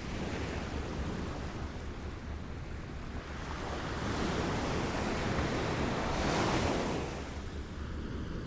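Small waves lapping at the shore, a steady wash of water that swells to a louder break about six seconds in and then eases back.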